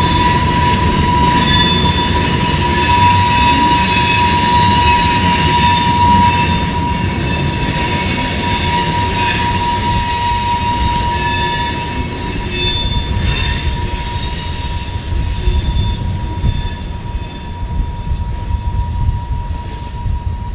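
Empty covered hopper cars of a grain train rolling past, their wheels squealing in steady high-pitched tones over the rumble of wheels on rail. The sound fades over the last few seconds as the end of the train goes by.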